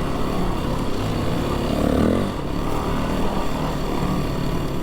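Dirt bike engine running under way over sandy, bumpy track, its revs rising and falling about two seconds in, over a steady noisy rush.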